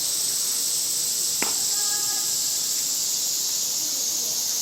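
A single sharp crack about a second and a half in, a bat hitting a softball, over a steady high-pitched hiss that runs under everything.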